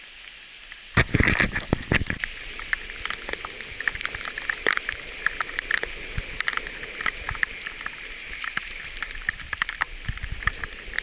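Bicycle tyres rolling over a gravel dirt road: irregular crunching and rattling clicks over a steady hiss. A burst of wind buffets the microphone about a second in.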